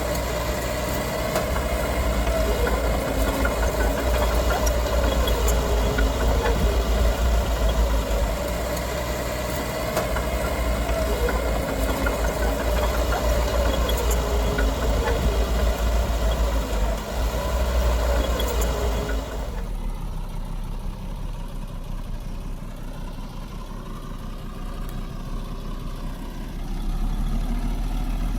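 Diesel engine of heavy earthmoving machinery running, with a deep rumble and a mid-pitched whine that wavers up and down as the load changes. About two-thirds of the way through, the sound changes abruptly to a quieter, duller engine rumble.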